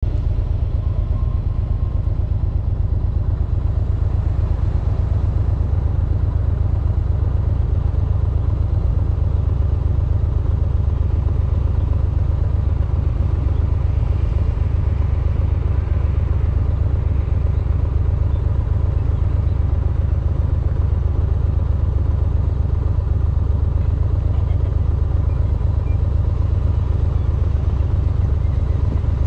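Motorcycle engine idling, a steady low sound with a quick, even pulse.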